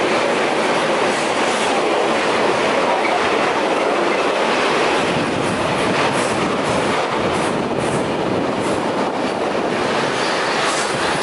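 Freight train of covered hopper wagons rolling past, a steady loud rumble of steel wheels on rail. Clicks of the wheels passing over rail joints become more frequent about halfway through.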